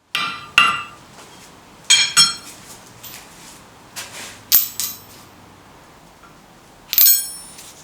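Steel striking steel in short, ringing clinks at uneven intervals, mostly in pairs, as blacksmithing tools and workpieces are struck or set down.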